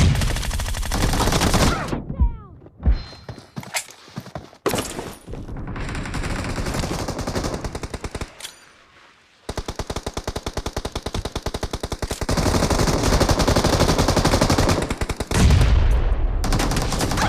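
Automatic gunfire in a shooter video game: several bursts of rapid, evenly spaced shots. After a short lull, the longest burst runs about five seconds, in the second half.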